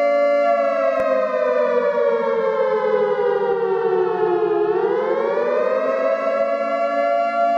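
Siren-like emergency alert alarm tone: a held chord of several pitches that slides slowly down for about four seconds, then swings back up to its steady pitch. A brief click about a second in.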